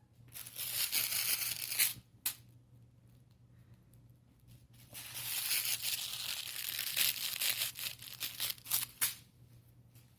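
Puppies tugging and chewing at a cloth skirt: the fabric rustles and scrapes in two long noisy stretches, the first in the opening two seconds and the second from about five seconds in to about nine.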